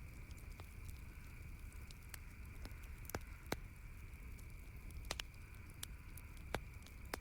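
Campfire crackling, with scattered sharp pops about every second over a soft, steady low rumble.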